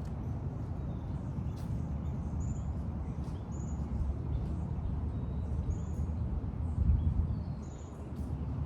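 Small birds chirping, short high chirps about once a second, over a steady low rumble.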